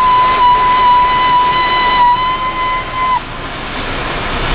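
Automatic car wash spraying and scrubbing over the car, a steady rushing noise. A high, steady tone rides over it and cuts off abruptly about three seconds in.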